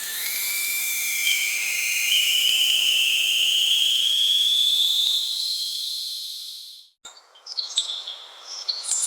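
A high whistling tone over a steady hiss, rising slowly in pitch for about seven seconds and then cutting off abruptly, followed by a few faint ticks.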